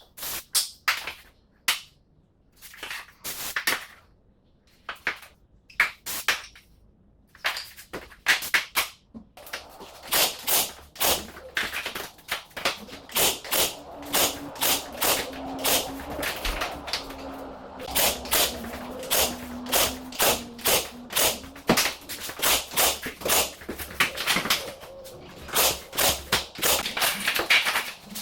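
Repeated sharp hammer-like strikes while PVC skirting board is fitted. They come irregularly for the first ten seconds or so, then settle into a steady run of about two a second.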